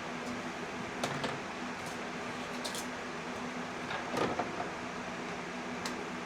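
Scattered light clicks and knocks of hands and tools working on engine parts, such as unhooking connectors and hoses, with a small cluster of knocks past the middle, over a steady low hum.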